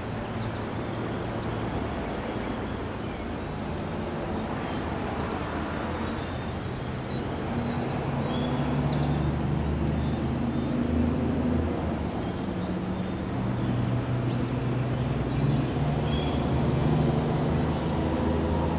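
Outdoor ambience dominated by a low, steady engine drone that grows louder from about eight seconds in, with scattered short bird chirps and a thin steady high tone above it.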